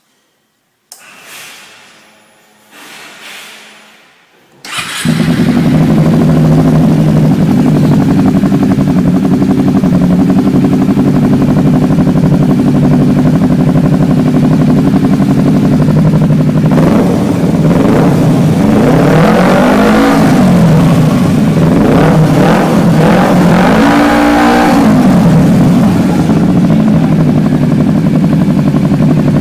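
Kawasaki Ninja 250R parallel-twin engine through a Jeskap aftermarket exhaust, starting up about five seconds in and then idling loudly and steadily. It is revved twice in the second half, the pitch rising and falling each time.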